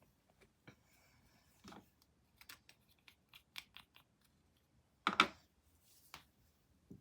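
Light taps and clicks from handling a paintbrush and paint materials, a quick run of sharp clicks partway through, then a louder brief scrape about five seconds in and a fainter one a second later.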